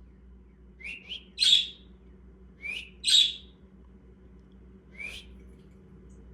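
Pet parakeet chirping: six short, sharp, upward-flicking calls, two of them much louder than the rest, with a pause before a last call later on.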